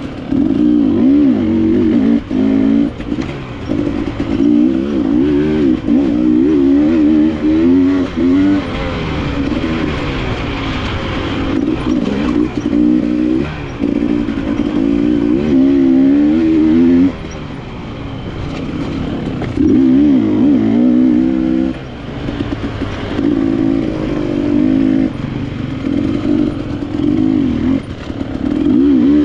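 KTM enduro dirt bike engine revving up and down as it is ridden along a trail, its pitch wavering constantly with the throttle, easing off briefly twice in the second half.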